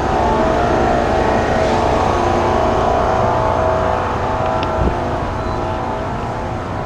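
Semi truck's diesel engine running steadily at idle close by, with a short thump near five seconds in.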